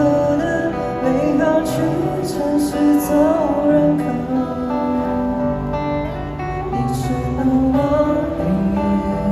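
Music: an acoustic guitar playing, with a melody line over held chords.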